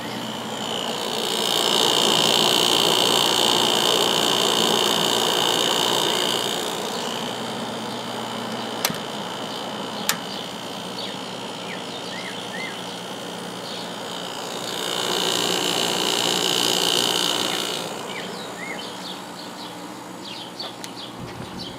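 1994 White Westinghouse 5200 BTU window air conditioner running on cool with its fan on high, a steady low hum from its A.O. Smith fan motor and Goldstar compressor. Over it, a loud high buzz swells and fades twice, and there are two sharp clicks near the middle.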